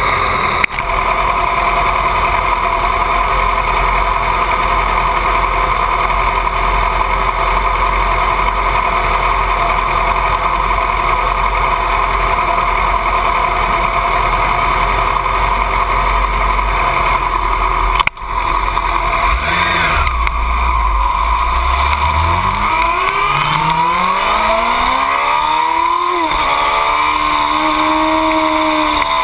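2008 Yamaha R6's inline-four engine idling steadily, then, after a brief break, accelerating hard: the pitch climbs, drops once at a gear change and climbs again.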